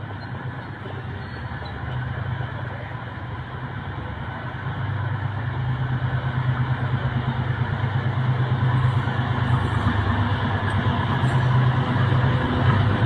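Diesel locomotive of a departing passenger train running with a deep, steady engine hum that grows steadily louder.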